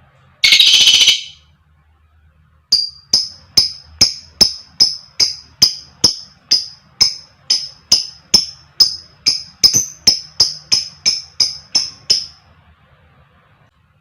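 Lovebird calling: one short harsh screech, then a long run of sharp, evenly spaced high chirps, about two to three a second for nearly ten seconds, the repeated 'kek' notes of a lovebird's ngekek call.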